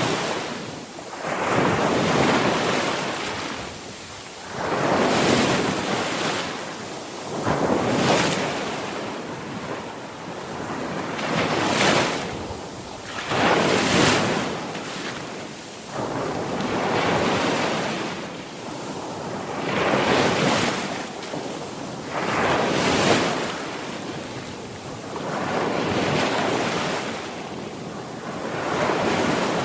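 Sea waves breaking on a shore, one surge after another every two to three seconds, each swelling and falling away, with some wind noise on the microphone.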